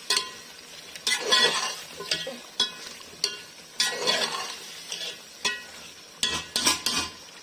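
Raw chicken pieces sizzling in oil and spiced masala in a metal pot while a slotted spatula stirs them, scraping against the pot in irregular strokes about once a second. This is the bhuna stage, the chicken being fried hard in the masala.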